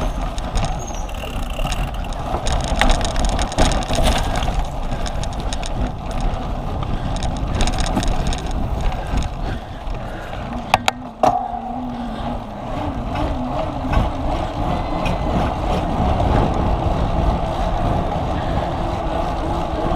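Cyclocross bike riding over rough ground, with a steady rumble and rattle and wind on the microphone. Two sharp clicks come about eleven seconds in.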